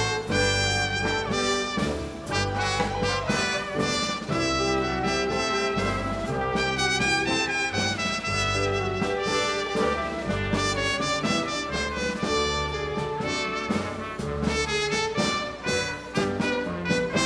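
Live dance orchestra playing a tango, with trumpets and trombones to the fore over a regular, evenly pulsing bass line.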